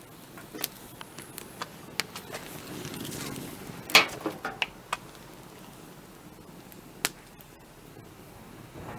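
Wood fire crackling: a scatter of sharp pops over a low hiss, with one loud crack about four seconds in.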